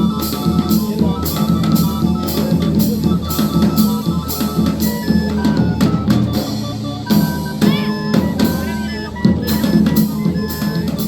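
Chinchinero-style drumming: bass drum and snare strokes keeping a fast, steady beat under a stepping melody line, with a short break partway through.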